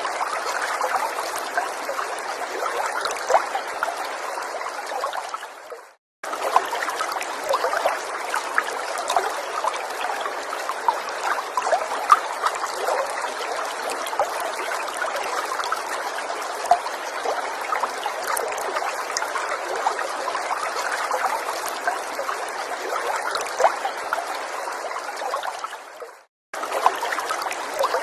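Gentle forest stream trickling, a steady watery rush full of tiny splashes. It fades out to silence about six seconds in and again near the end, each time coming straight back a fraction of a second later.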